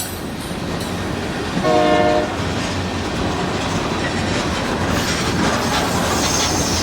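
Freight cars rolling past with a steady rumble and clack of wheels on rail joints. A short horn-like tone sounds about two seconds in, and a faint high wheel squeal starts near the end.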